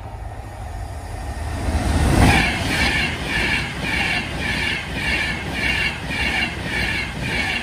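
Class 390 Pendolino electric train passing at speed. A rush of noise builds over the first two seconds as the front goes by, then a steady beat about twice a second as each coach's wheels pass.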